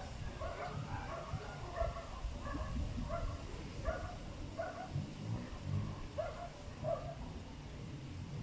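A dog barking in a string of short barks, about two a second, over the low rumble of wind on the microphone.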